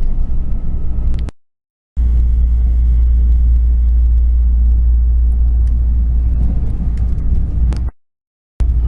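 Steady low rumble of a moving passenger train heard from inside the carriage. It drops out to dead silence twice for about half a second.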